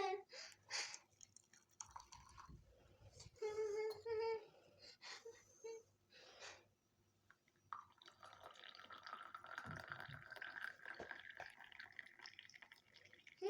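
A small child's short babbling sounds in the first half, then a steady rushing noise, like running water, that starts suddenly about eight seconds in.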